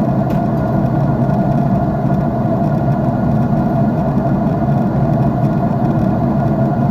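Steady jet airliner cabin noise heard from a window seat: the engines and the rushing air blend into an even, unchanging low noise.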